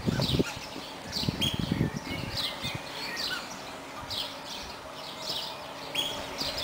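Birds chirping: a repeating series of short, falling chirps, roughly two a second, with some low rumbling noise during the first two seconds.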